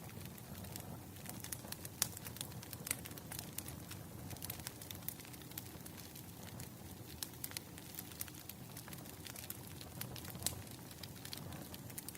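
A wood fire crackling, with irregular sharp snaps and a few louder pops over a low steady rumble of the burning logs.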